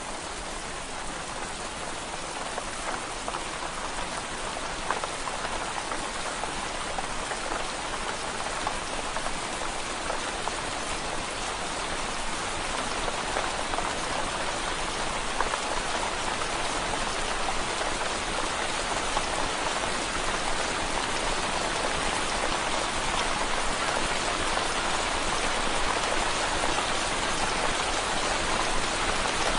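Steady rain pattering on window glass, a dense even hiss of drops that grows slowly louder.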